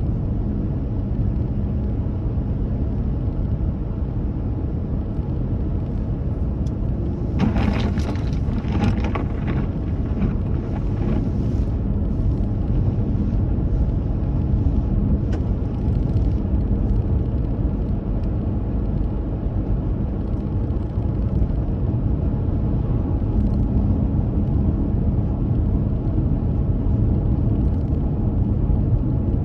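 Car driving: a steady low rumble of road and engine noise, with a short spell of sharp clicks or rattles about seven to eleven seconds in.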